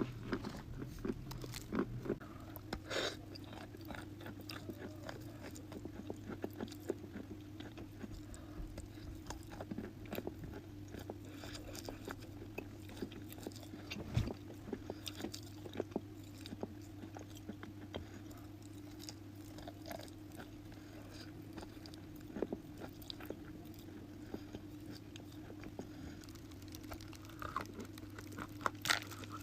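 Dry chalk or clay being bitten and chewed close to the microphone: a steady run of crisp crunches and crackles, with a steady low hum underneath.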